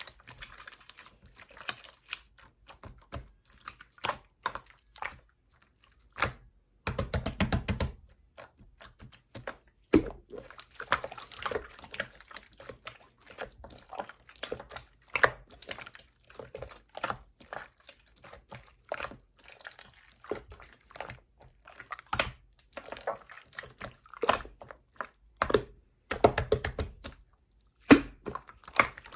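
Clear slime being squished and pressed by hand, giving irregular sticky clicks and small pops, with two longer stretches of rapid crackling, about seven seconds in and again near the end.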